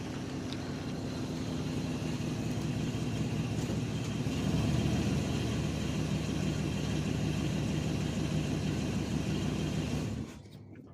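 A vehicle engine running with a steady low hum that grows louder about four seconds in, then cuts off abruptly near the end.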